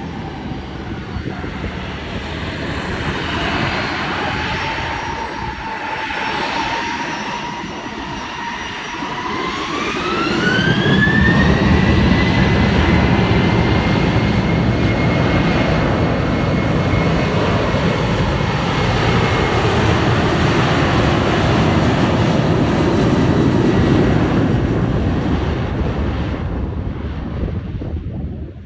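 Boeing 737 jet engines spooling up to takeoff thrust. About ten seconds in, a whining tone climbs steeply as the power comes up, followed by a loud, steady roar that begins to fade near the end.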